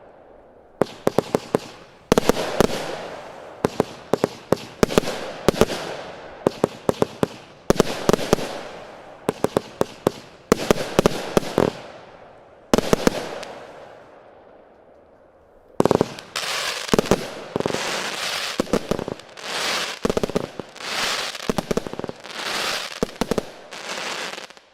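Fireworks barrage: volleys of sharp bangs roughly every second, each fading out in crackle. A short lull comes about two-thirds of the way through, then quicker, denser volleys follow and stop abruptly at the end.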